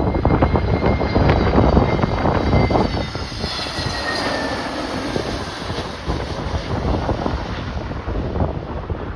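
Jet airliner engines passing, a whine that drifts down in pitch about halfway through over a steady rumble, with strong gale-force wind buffeting the microphone.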